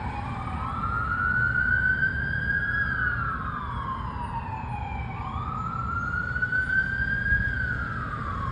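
Fire apparatus sirens on wail, the pitch slowly rising and falling about every five seconds, two sirens slightly out of step with each other, over the low rumble of the engines and road.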